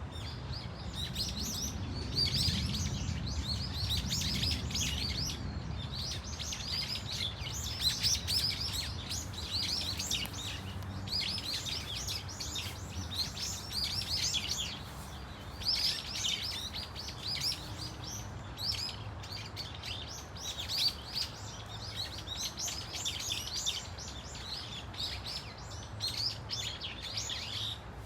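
A flock of brown-eared bulbuls calling, many shrill, short calls overlapping in an almost continuous chatter with brief lulls, over a low background rumble.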